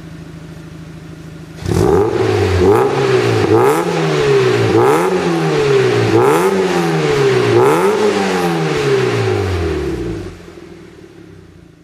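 Mazda Roadster NB8C's 1.8-litre four-cylinder engine running through a one-off 57.2 mm SUS304 stainless exhaust. It idles, then is revved about five times in quick succession from about two seconds in, and drops back to idle near the end.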